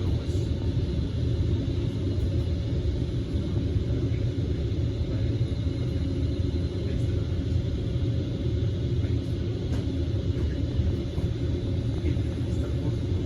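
Cabin noise of a Kawasaki Heavy Industries C151 metro train on the move: a steady low rumble of wheels and running gear on the track, with a faint steady hum above it.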